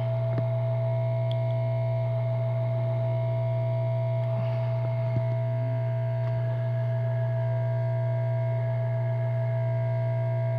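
Steady loud electrical hum with a steady higher whine over it, unchanging throughout, with a couple of faint clicks, one near the start and one about halfway.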